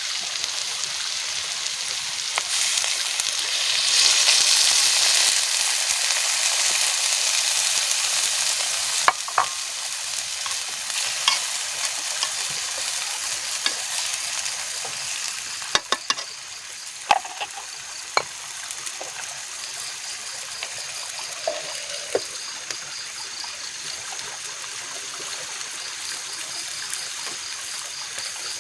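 Food sizzling as it fries in a pan over a campfire, with a few short sharp clicks in the middle stretch.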